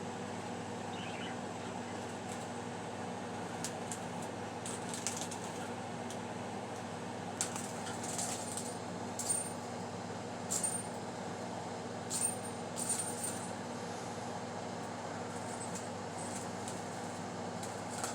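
A budgie playing with the beads on its cage swing: scattered light clicks and a few short, high tinkles, over a steady fan-like hum.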